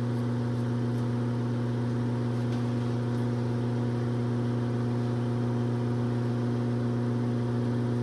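A steady, low-pitched hum that holds one pitch throughout without rising or falling.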